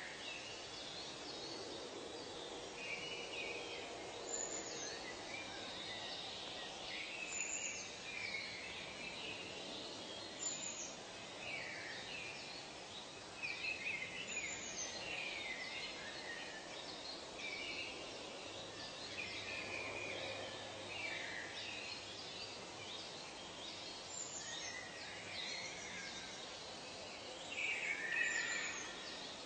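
Several birds chirping and whistling in short overlapping calls, over a steady hiss of outdoor background ambience.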